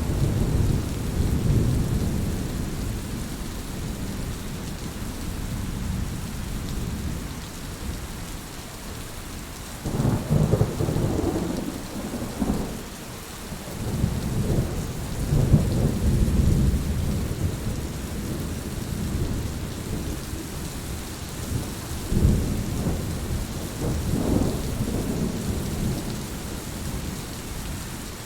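Heavy rain falling steadily, with low rolls of thunder swelling up about ten seconds in, again around fifteen seconds, and twice more after twenty seconds.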